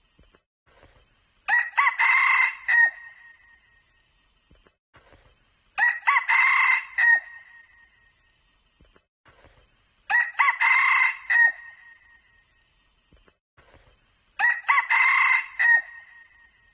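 Red junglefowl rooster crowing, four times in a row at an even spacing of about four seconds, each crow short and clear with quiet between.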